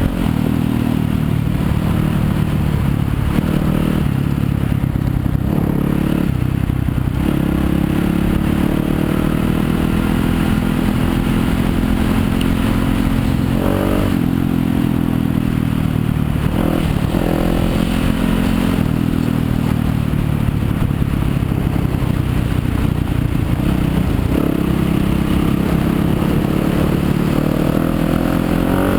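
Yamaha YZ250FX dirt bike's 250cc single-cylinder four-stroke engine running under way, its revs rising and falling several times as the throttle is worked.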